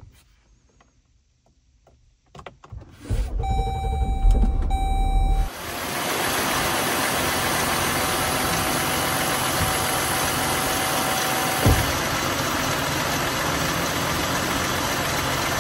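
2018 Dodge Durango's 3.6-litre V6 is cranked by the starter for about two seconds, catches, and then idles steadily. There is a single short knock about twelve seconds in.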